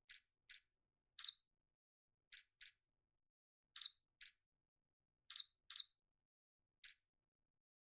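A small animal's squeaks: ten short, very high-pitched chirps, most in quick pairs, with silence between them.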